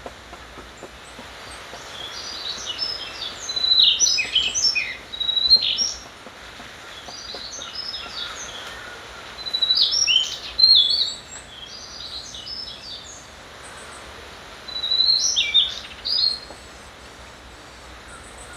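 A songbird singing in three spells of quick chirped phrases, over a steady background hiss.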